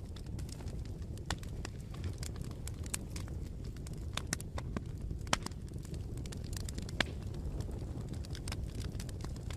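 Campfire burning with a steady low rumble and scattered sharp crackles and pops, two louder pops a little past the middle.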